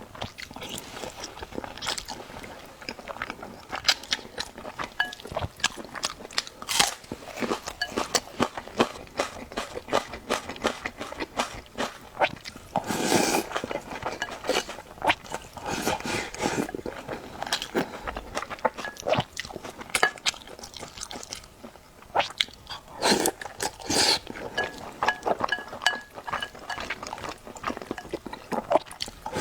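Close-miked eating: a person chewing and biting into food with many irregular crunches and wet clicks, broken by a few longer, louder spells.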